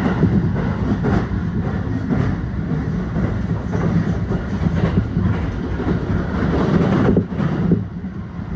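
Electric passenger train running at speed, heard from inside the carriage: a steady rumble of wheels on the track with a clickety-clack about once a second. The noise drops suddenly about seven seconds in.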